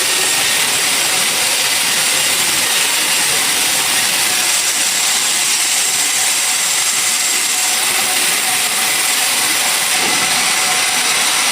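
Sawmill machinery running: a loud, steady hiss-like noise with no breaks.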